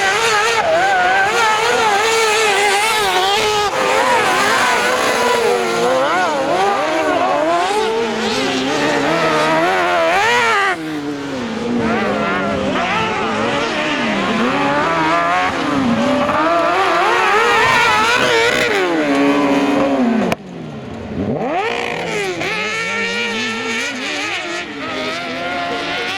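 Several kart cross buggy engines racing together, each revving up and easing off so that their pitches rise and fall over one another. The sound cuts off abruptly twice, about 11 and 20 seconds in, then resumes.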